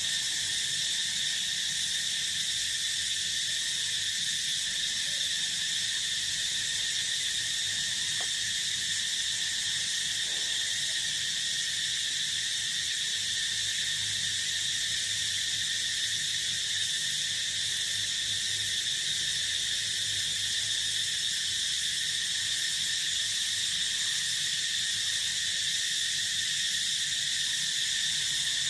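Steady, unbroken chorus of crickets and other insects trilling in a field, with a faint low hum underneath.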